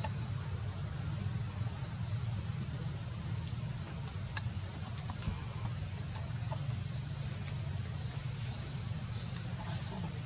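Birds chirping, short high calls repeating over a steady low rumble.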